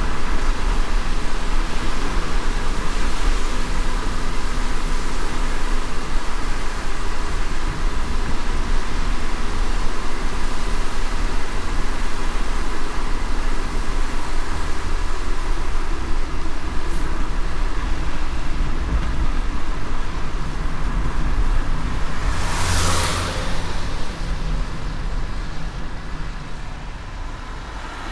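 Steady road noise of a car driving in light rain: a low engine and tyre rumble under an even hiss. About 23 seconds in, another vehicle swells past with a brief whoosh, and the overall sound eases slightly near the end.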